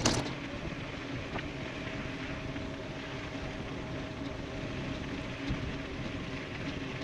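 E-bike riding at speed: steady wind and tyre noise with a faint even hum, and a sharp knock right at the start.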